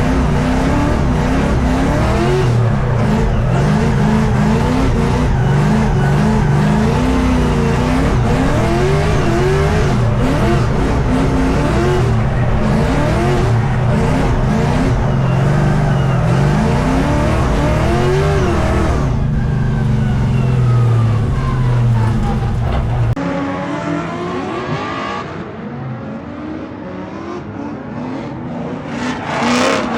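LS V8 engine of a BMW E82 drift car revving up and falling back again and again as it drifts. The sound drops quieter after a cut about three quarters of the way in, then rises again near the end.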